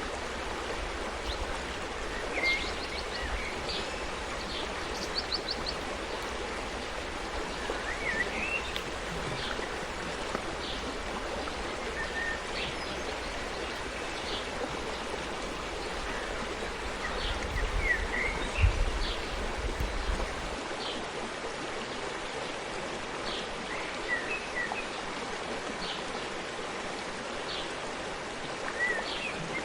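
Forest stream flowing steadily, with small birds chirping briefly every few seconds. A low rumble underneath swells and then stops about two-thirds of the way through.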